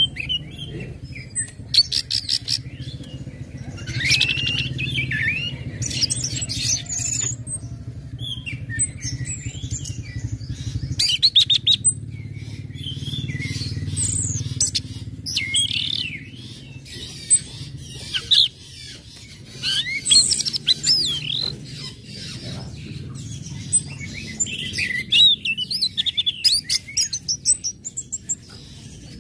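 Orange-headed thrush singing a varied run of quick chattering notes, sharp chips and sliding whistles, over a steady low hum.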